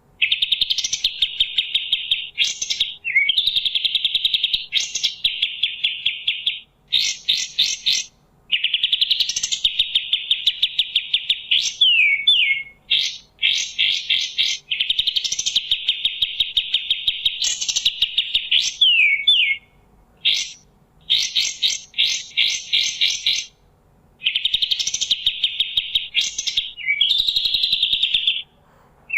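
A kapas tembak songbird singing a loud, rapid chattering song: long phrases of fast-repeated notes, with quick sweeping whistles, broken by brief pauses every few seconds.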